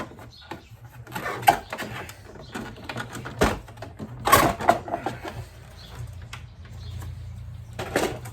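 Scattered metallic clinks and clatter of hand tools and small screws while a motorcycle side cover is unscrewed, over a steady low hum.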